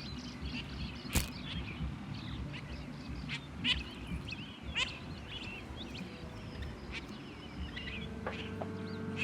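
Outdoor birds calling: many short, quick chirps and whistles scattered through, with one sharp click about a second in. Music fades in near the end.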